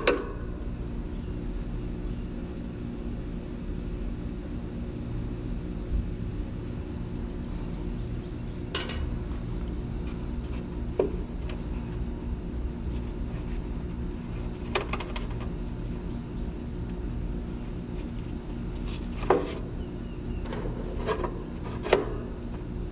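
A few sharp metallic clinks and clatters of tools and parts being handled on an air-conditioning unit, over a steady low electrical hum. Short high chirps repeat about every second.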